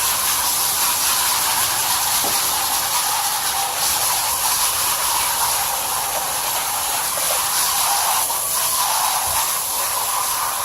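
Garden hose nozzle spraying a steady stream of water onto an air-conditioning coil, rinsing clogged cottonwood out of it.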